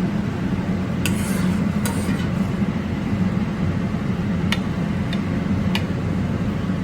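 A serving spoon or utensil clicking against a serving platter about five times as food is plated, over a steady loud kitchen hum.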